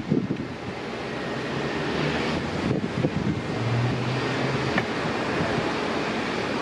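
Jet airliner engines roaring as an aircraft passes during takeoff or landing: a steady rushing noise that builds over the first second and then holds. Wind buffets the microphone at the start.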